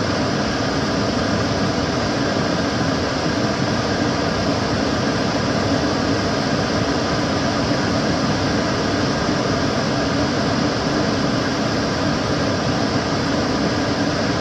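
Kitchen cooker hood's extractor fan running steadily: an even rushing noise with faint steady tones through it.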